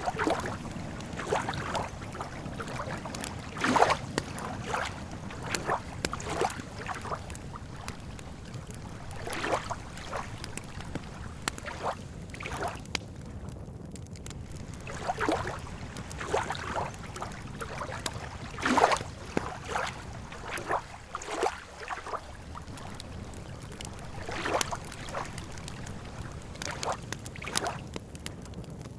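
Campfire wood crackling, with irregular sharp pops and snaps; two louder pops come about 4 and 19 seconds in. Beneath it is a steady low wash of lake water lapping.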